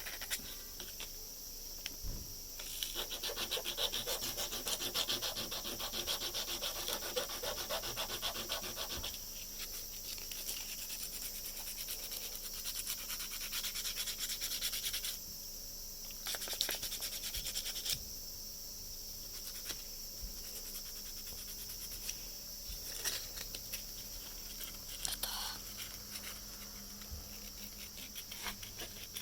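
Folded #180-grit sandpaper rubbed quickly back and forth over the 3D-pen plastic patched onto an eyeglass frame, smoothing it down. The scratchy strokes come in runs with short pauses between, over a faint steady high tone.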